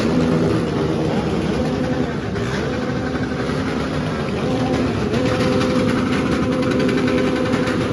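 Several motorcycle engines running together, their pitch shifting up and down as they are revved.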